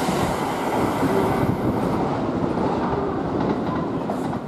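Kintetsu limited express train running away after passing through the station at speed, a steady rumble of wheels on rail. Its hiss fades from about halfway through, and the rumble tails off near the end.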